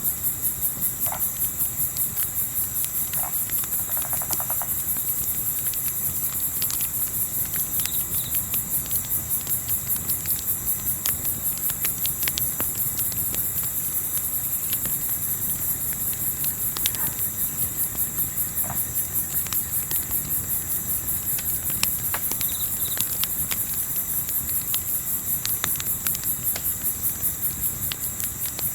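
Crickets chirping in a steady, high pulsing trill, about three pulses a second, with a few scattered sharp clicks of a crackling campfire and some faint short calls of other night animals.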